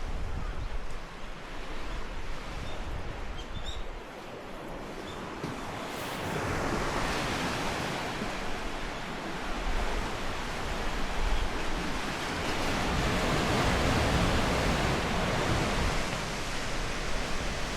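Ocean waves washing on the shore, a steady surging hiss that builds from about six seconds in and peaks past the middle, with low wind rumble on the microphone.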